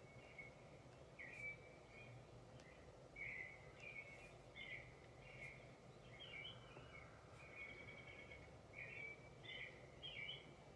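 Faint birdsong ambience: many short chirps and trills, one after another, with no pause.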